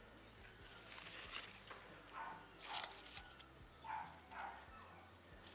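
Faint bird calls: four short calls falling in pitch, between about two and four and a half seconds in, over light rustling of strawberry leaves being handled.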